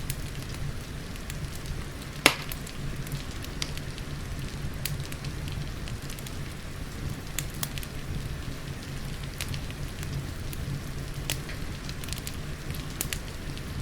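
Wood fire crackling, with scattered sharp pops and one loud pop about two seconds in, over a steady hiss of rain and a low rumble.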